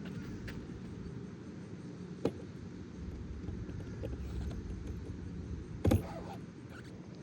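Strong gusty wind buffeting the microphone as a low, steady rumble, with a few sharp clicks; the loudest click comes a little before the end.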